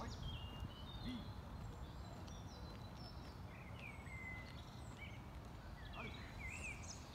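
Wild birds chirping and singing in short, sweeping phrases over a steady low outdoor background rumble.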